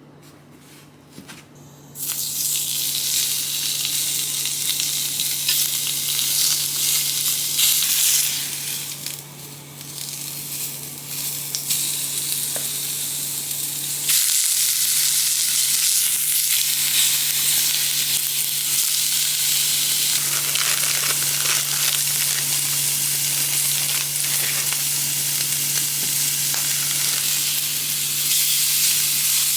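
Food sizzling in hot oil in a frying pan. It starts suddenly about two seconds in and gets louder about halfway through, over a steady low hum.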